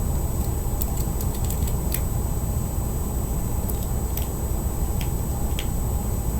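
Scattered light clicks and ticks of a small fingerboard tool and truck hardware being handled, bunched in the first couple of seconds and a few more later. A steady low rumble lies under them.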